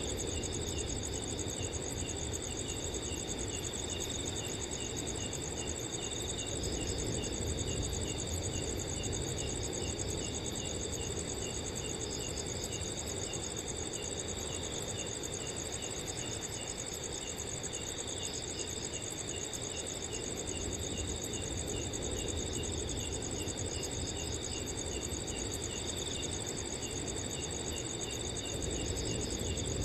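Several crickets chirping together in a steady night chorus: a high, fast continuous trill over a lower chirp repeated about two or three times a second, with a low wind rumble underneath.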